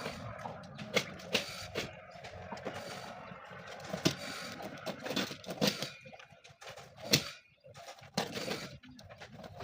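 Hand work on an armchair's upholstery: irregular sharp clicks and knocks from tools against the frame, with rustling of fabric between them.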